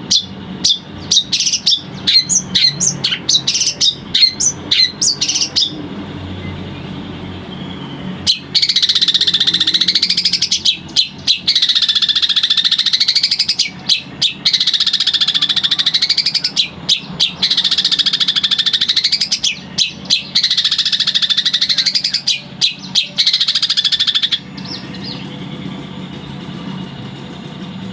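Long-tailed shrike (cendet) singing: a run of quick, sharp chips, then from about eight seconds in a long series of loud, buzzy, swooping notes that dip and rise, repeated every couple of seconds and stopping a few seconds before the end.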